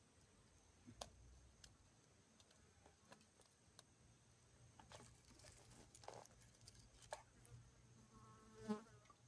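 Near silence with faint scattered clicks and ticks, and a flying insect buzzing briefly close by near the end.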